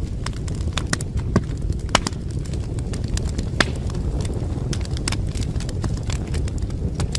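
Wood fire burning in a fireplace, crackling with frequent irregular sharp pops over a steady low rumble of the flames; a few louder pops stand out in the first four seconds.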